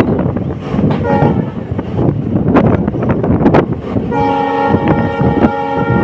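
Diesel passenger train running with rail clatter, its multi-tone horn giving a short blast about a second in, then a long blast from about four seconds in.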